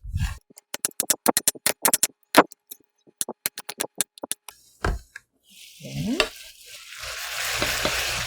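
Knife chopping carrot on a cutting board in quick runs of short strokes, then, from about six seconds in, pork belly sizzling steadily in a frying pan.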